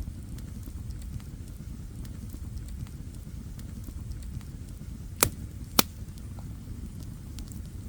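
Wood campfire burning with a steady low rustle and scattered small crackles; two loud sharp pops about half a second apart, a little past the middle.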